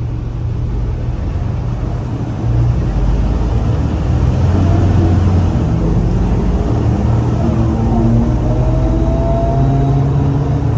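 Scania L94UA city bus's diesel engine running and pulling away, getting louder about two and a half seconds in. A whine rises slowly in pitch over the second half as the bus accelerates.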